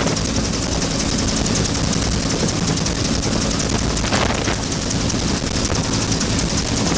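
Bell UH-1 Huey helicopter in flight: steady engine and rotor noise with a rapid, even beat from the rotor blades.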